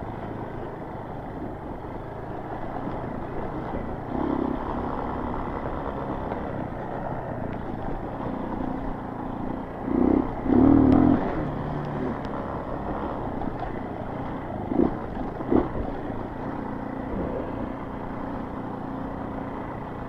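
Honda CRF230 dirt bike's single-cylinder four-stroke engine running at trail-riding speed over rough, stick-strewn ground. There is a louder burst about ten to eleven seconds in and a couple of sharp knocks a few seconds later.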